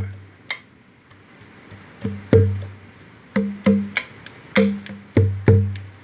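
Conga drum with a goat-skin head played by hand: a single slap, a pause of about two seconds, then an irregular rhythm of open tones and slaps.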